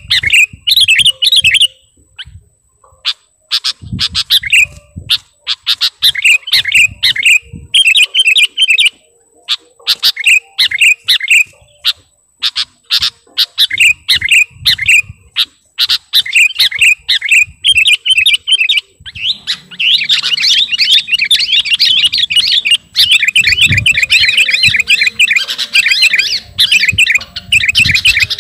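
Sooty-headed bulbul (kutilang) singing loudly: short bubbly whistled phrases repeated every second or two, which run together into continuous rapid chattering song about two-thirds of the way in.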